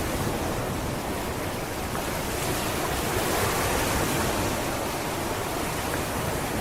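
Sea waves washing onto a beach: a steady rush of surf that swells a little about halfway through as a wave comes in.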